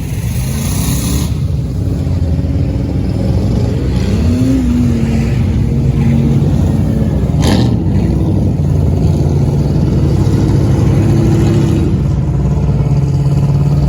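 Dodge Ram pickup's engine running hard under throttle, its pitch rising and falling, with one sharp bang about seven and a half seconds in.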